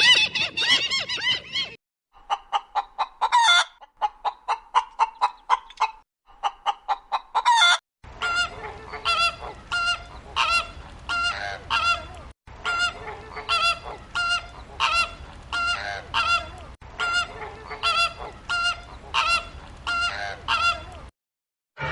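Fowl calling: rapid runs of short, repeated calls, about two to three a second, in several clips joined by abrupt cuts.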